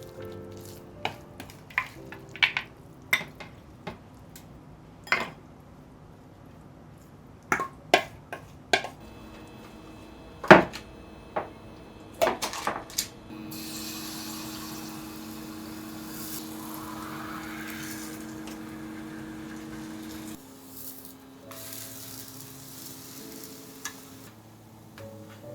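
Kitchen clatter: utensils and dishes clinking and knocking many times, one knock about ten seconds in louder than the rest. Then a steady hiss for about seven seconds, which stops suddenly, over soft background music.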